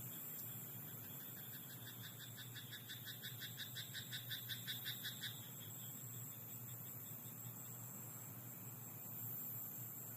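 A frog croaking in a rice paddy: a rapid run of pulsed croaks, about five a second, building in loudness and then stopping short about five seconds in.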